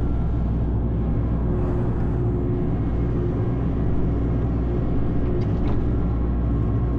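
Excavator's diesel engine running steadily with a low, even rumble, heard from inside the cab.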